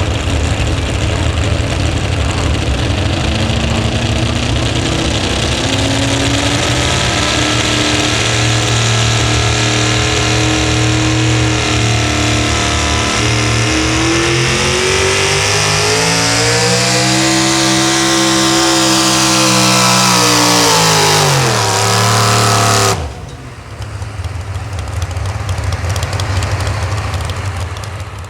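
Pulling truck's engine running at full throttle under load as it pulls the sled. Its pitch sags, then climbs steadily to a high scream and falls sharply before cutting off suddenly about 23 seconds in. A quieter engine sound follows.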